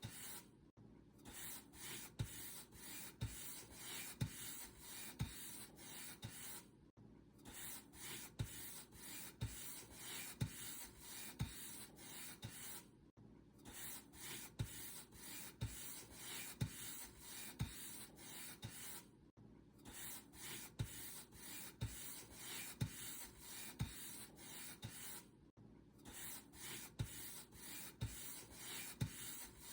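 Paint brush bristles rubbing across a surface in steady back-and-forth strokes, about one a second, each with a soft thump. There is a short gap about every six seconds.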